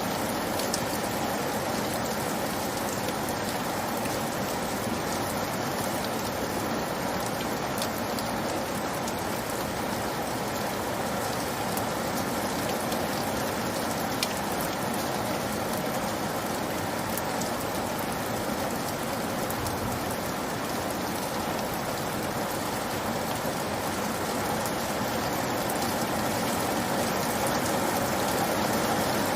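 Steady rainfall, an even hiss of rain with scattered faint drop ticks.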